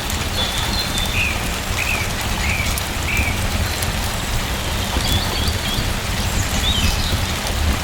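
Steady rain falling, with a bird giving short chirps several times over it.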